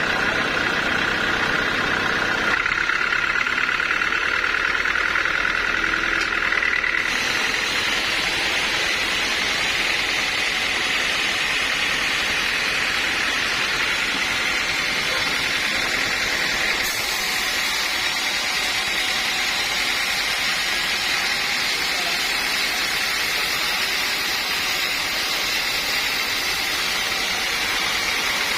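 Sawmill machinery running steadily: a constant mechanical din with a high whine. Its character changes abruptly a few times.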